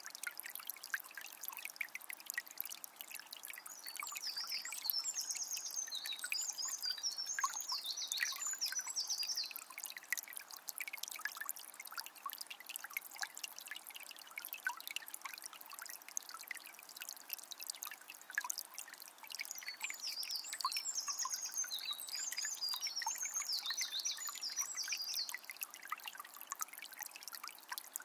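Forest river trickling steadily, full of small splashes and drips. A songbird sings quick, high phrases for several seconds, twice: about four seconds in and again about twenty seconds in.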